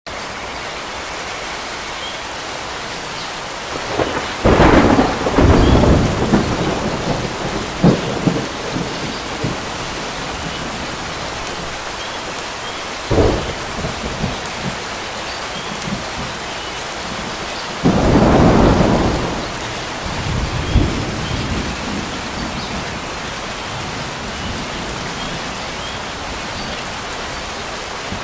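Steady rain falling on water, with thunder cracking and rumbling three times: about four seconds in, around thirteen seconds and about eighteen seconds in. Faint bird chirps sound now and then above the rain.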